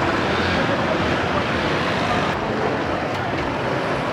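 Steady roar of street traffic, motorbikes and cars passing, with no single vehicle standing out.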